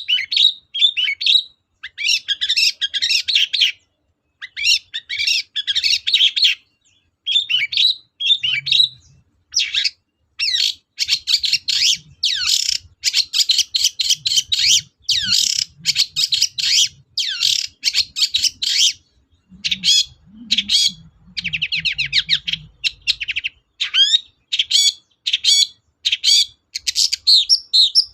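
Long-tailed shrike (cendet) singing a fast, varied song of high chirping phrases, each lasting a second or two with short pauses between, mixed with mimicked calls of other birds. There is a run of rapid trills a little after the middle.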